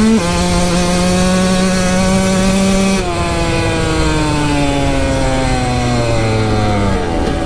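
Kawasaki KX 125 two-stroke dirt bike engine held at steady high revs. About three seconds in the throttle is closed and the revs fall off gradually as the bike slows.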